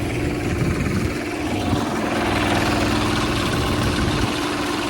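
Two-wheel hand tractor engine running steadily, a little louder from about two seconds in.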